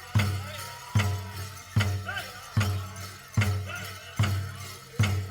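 Powwow drum group playing a large hand drum in a steady beat, about one strike every 0.8 seconds, with high voices gliding over it. The drumming stops with a last strike near the end.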